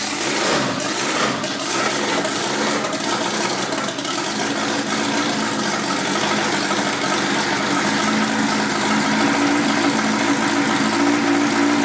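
Honda four-cylinder engine running steadily just after its first start on a new head gasket, holding an even note that grows a little stronger in the second half.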